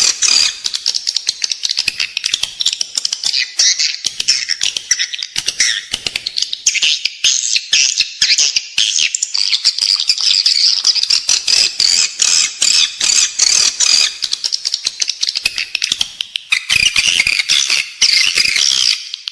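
Edible-nest swiftlets twittering in a dense, continuous stream of rapid high chirps and clicks. This is the in-house lure call played inside swiftlet buildings to draw the birds in to nest.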